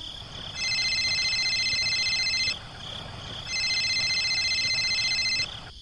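Electronic trilling ring tone sounding twice, each ring about two seconds long, with a pause of about a second between them.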